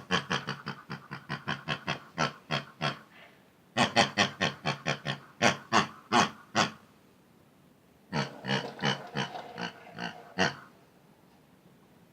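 Pig grunting in quick runs of short oinks, about five a second, in three bursts with short pauses between them.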